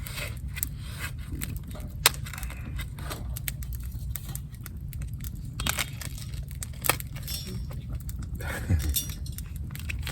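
Light metallic clinking and scattered sharp clicks from metal camp gear being handled, over a low steady rumble.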